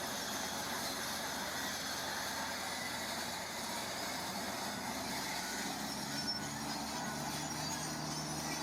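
Heavy construction machinery with diesel engines running steadily, with a constant mechanical hiss. About five seconds in, a deeper, even engine note comes in underneath.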